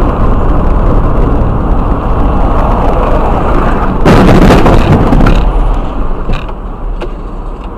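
Loud vehicle noise picked up by a dashcam, which starts suddenly, with a louder rush of noise from about four seconds in that lasts just over a second.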